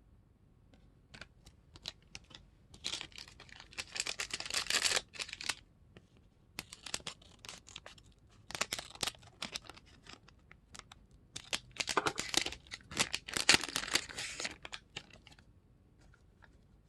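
Plastic wrapper of an Animal Crossing card gummy packet crinkling and tearing in three bursts of rustling, with small crackles between.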